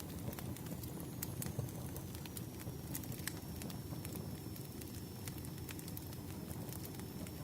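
Campfire burning: irregular sharp crackles and pops of burning wood over a steady low rumble of flame. A faint high whistle runs through most of it.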